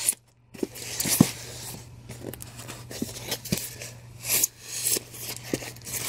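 Handling of a boxed statue and its packaging: plastic and foam rustling in short bursts, with scattered small clicks and knocks.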